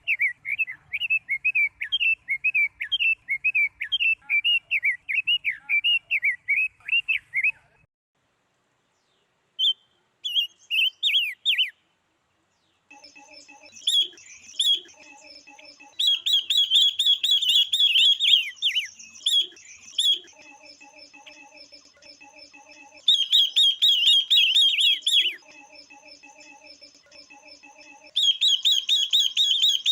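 Female silver-eared mesia and female red-billed leiothrix calling, the kind of calls used to excite male birds: quick runs of high chirps in bursts of a few seconds, broken by a short silence about a third of the way in.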